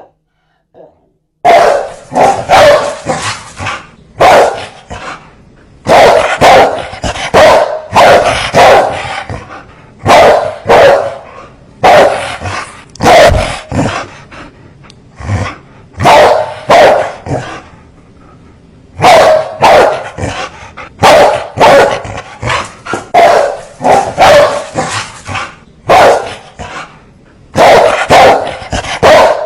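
Large dog barking fiercely in rapid bursts of several loud barks separated by short pauses, starting about a second and a half in.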